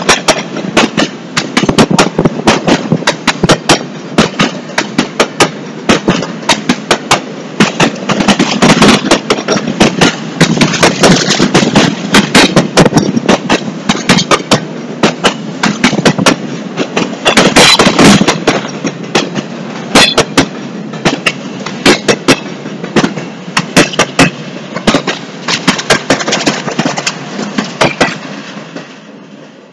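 Empty intermodal well cars of a Norfolk Southern freight train rolling past, loud clanking and banging in rapid clusters of sharp strikes over a steady rumble as the wheels cross rail joints. The noise falls away near the end as the last car goes by.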